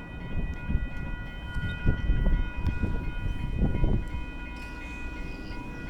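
Railroad grade-crossing bells ringing steadily, with a low, uneven rumble that swells between about half a second and four seconds in.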